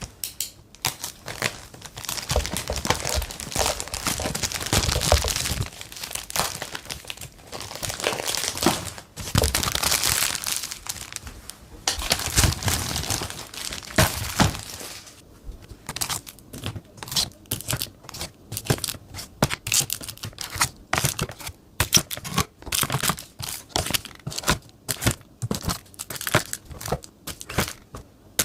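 Packaging crinkling and rustling as it is handled and opened. The handling is continuous for about the first half, then breaks into many short, separate rustles and clicks.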